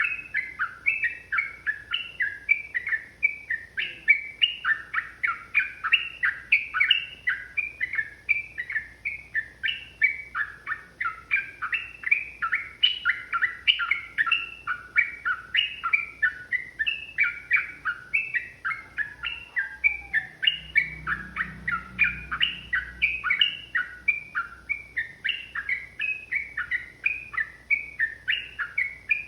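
Yellow-vented bulbuls (trucukan) singing continuously: a long, fast run of short, bubbly chirping notes that follow one another without a break.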